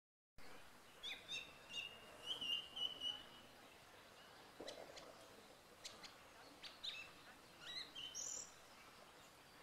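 Songbirds singing: a series of short high chirps and whistled notes, with a warbling phrase about two seconds in, over faint background noise.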